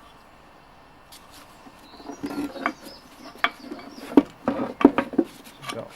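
Parts of a parts washer being handled: irregular clicks, knocks and rattles starting about a second in and growing busier toward the end.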